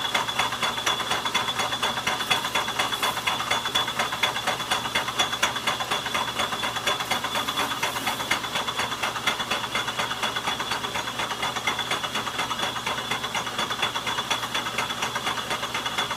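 Logan metal lathe running under power, its gear train giving a fast, even clatter with a steady high whine over it.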